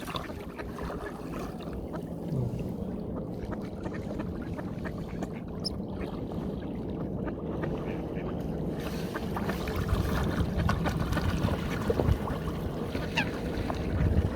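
Ducks splashing and jostling in the water as they are fed, with a few quacks; the splashing grows louder toward the end.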